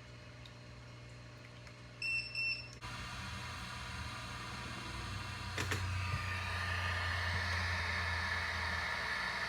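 Two short electronic beeps, then a steady high-pitched whine with a low hum under it that grows louder over the next few seconds.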